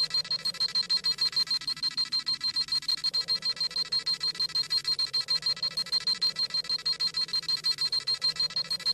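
Dragon Ball Z scouter sound effect: a rapid, steady electronic beeping, several high beeps a second, the scouter reading a power level.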